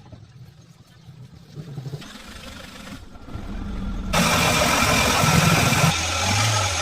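Car engine running and revving, with a sudden loud surge about four seconds in that eases off near the end.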